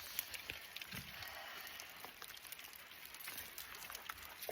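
Faint, steady rush of falling water from waterfall spray, with scattered light ticks and patters through it.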